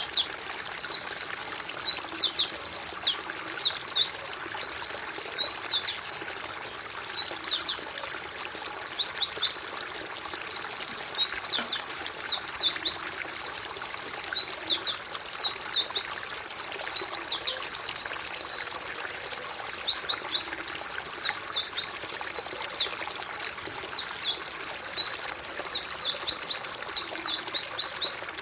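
A flock of white-eyes (pleci) chattering with dense, rapid high chirps and twitters that overlap without pause.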